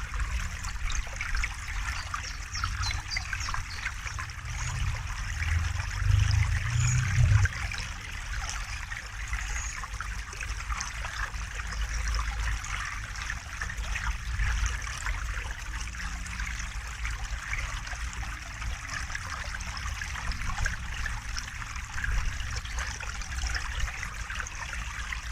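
River water flowing and trickling steadily. About five seconds in, a low rumble swells for a couple of seconds.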